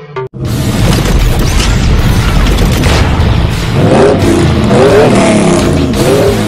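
A car engine revving hard, starting abruptly about half a second in. Its pitch rises and falls a couple of times in the second half.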